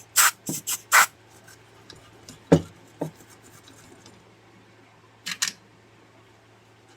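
Circuit board being cleaned of flux with cleaner: four short hissy bursts in the first second, a single knock at about two and a half seconds, and two more quick bursts near the end, over a faint steady hum.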